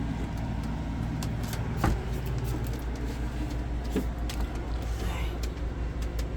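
A steady low mechanical hum, with scattered light clicks and rustles and a single sharp knock about two seconds in.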